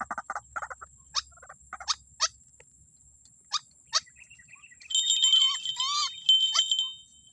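White-breasted waterhen calls: a quick stuttering series at the start, then scattered short sharp notes, and a busy burst of bending, warbling calls from about five seconds in.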